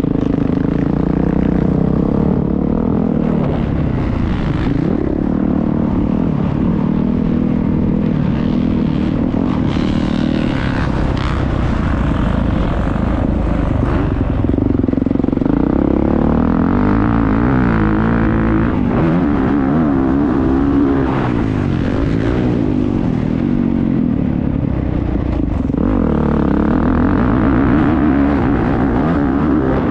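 Motocross bike engine heard from on board, its pitch climbing and dropping again and again as the rider opens and closes the throttle and shifts around the track.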